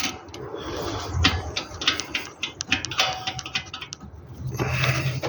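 Irregular light metallic clicks and rattles of a hand tool working the last bolt loose.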